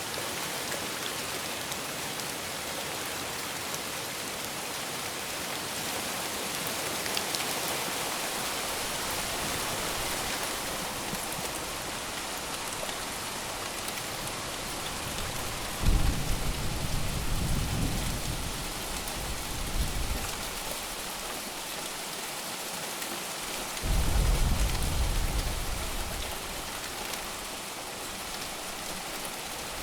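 Steady heavy rain falling, with two rolls of thunder: one breaking suddenly about halfway through and rumbling for a few seconds, and a shorter one some seconds later.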